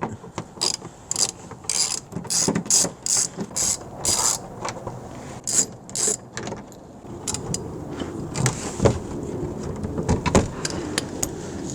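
3/8-inch ratchet with a 10 mm socket clicking in quick repeated runs as it backs out the bolts of the engine's under-cover. After about six seconds the clicking gives way to a softer stretch with a few single knocks.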